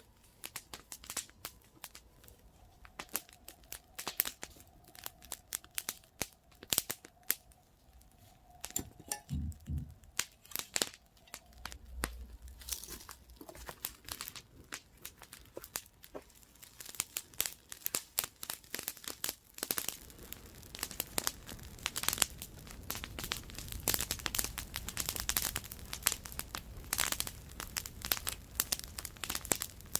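Wood campfire crackling, with irregular sharp pops and snaps throughout. About two-thirds of the way in, the crackling becomes denser over a steady hiss of burning.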